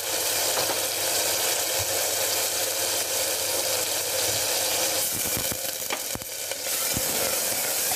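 Onion-ginger masala with spice powders frying in hot oil in a pressure cooker pot, sizzling steadily as the red chilli powder that was just added roasts. A few light knocks come between about five and seven seconds in.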